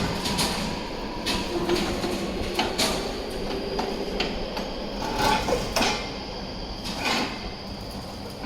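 Meitetsu Seto Line electric train running: irregular knocks and rattles over a steady rumble, with a faint motor whine rising slowly in pitch from about a second and a half in.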